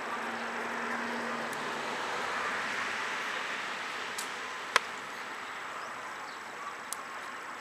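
Wood bonfire crackling: three sharp pops, the loudest about halfway through, over a steady rushing noise.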